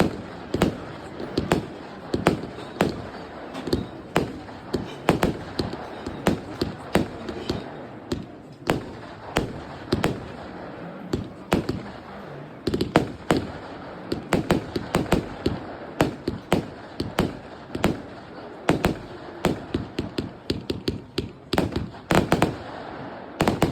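Startrade Feuerzauber 2 firework battery firing: a fast, uneven run of sharp bangs, several a second, over a crackling hiss. There are two brief lulls, about a third and about halfway through, and a dense flurry of bangs near the end.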